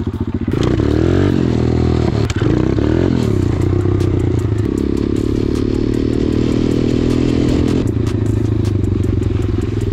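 Pit bike's single-cylinder 125 cc engine pulling away in first gear and accelerating, the revs rising, dipping at a gear change about two and a half seconds in, climbing again and holding steady, then dropping near the end.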